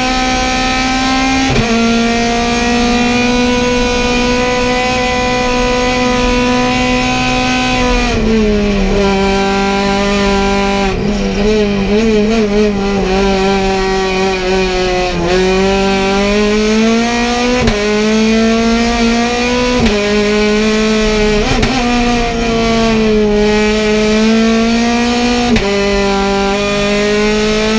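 Race car engine running hard at high revs, heard from inside the stripped cabin. The pitch holds high for long stretches, then drops and climbs back several times at gear changes and lifts.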